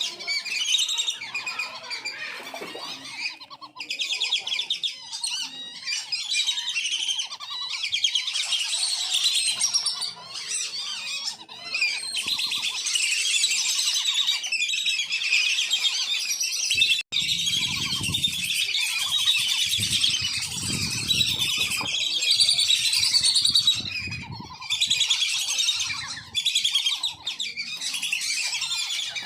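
A flock of wandering whistling ducks (belibis kembang) calling without pause, a dense chatter of high, thin whistles overlapping one another. From about the middle a low rumble runs under the calls for several seconds.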